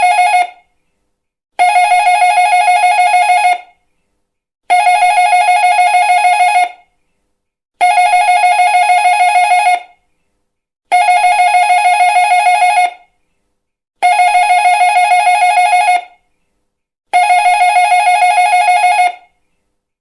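Electric doorbell ringing in repeated rings of about two seconds, each a fast, even trill on one high pitch, with about a second of silence between them: the tail of one ring, then six more.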